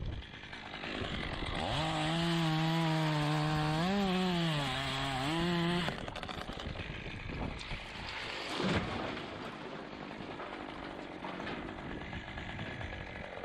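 Chainsaw running near full throttle for about four seconds, its pitch dipping and recovering as it cuts into the wood, then dropping away abruptly to a rougher, lower-level running sound.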